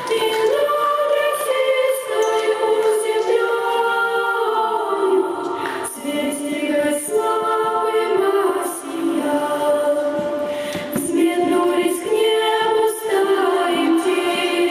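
A choir singing, several voices holding long, drawn-out notes that move from pitch to pitch.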